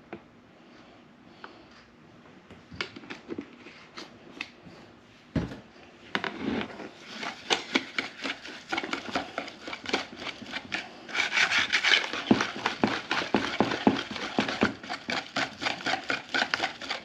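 A utensil stirring a thick cranberry-sauce, onion-soup-mix and salad-dressing mixture in a bowl. A few light clicks and a knock come first, then fast repeated scraping strokes from about six seconds in, getting louder.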